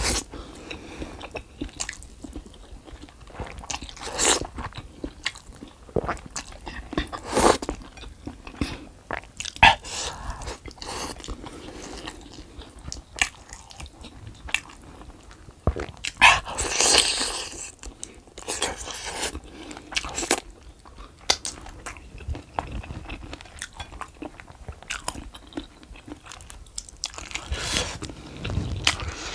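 Close-miked eating: a man chewing and biting into chicken noodles and chicken feet, with many short wet mouth clicks and smacks and a few longer slurping stretches, one about halfway through and one near the end.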